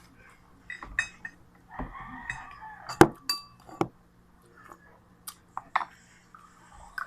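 Spoon and dishes clinking during a meal: a handful of sharp, separate clinks, some with a short ring, the loudest about three seconds in.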